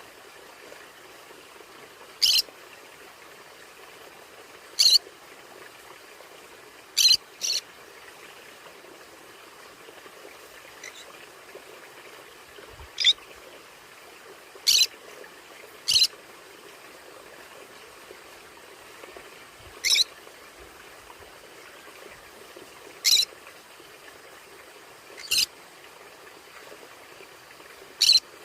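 A conure giving short, sharp high-pitched calls, one at a time every two to three seconds with one quick double call, over a steady faint hiss.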